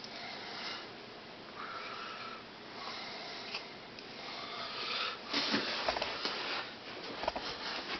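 Quiet breathing close to the microphone, soft breaths coming every second or so, with a few small clicks and rustles in the second half.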